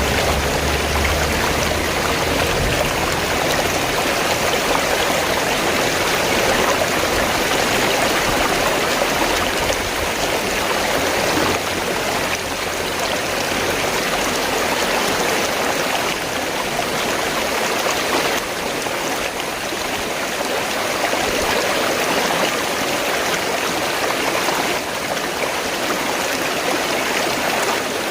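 River water flowing steadily, a continuous rushing wash with no breaks. A low rumble underneath fades away in the first few seconds.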